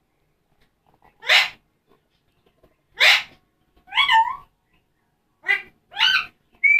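Pet parrot vocalising: two short hissy, sneeze-like bursts, then a run of pitched, warbling calls and a brief whistle near the end.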